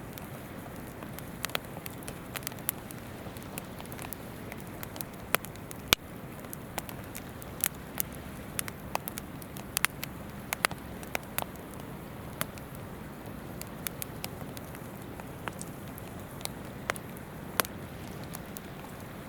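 Wood campfire crackling, with frequent irregular sharp pops and snaps over a steady rushing murmur of a river stream.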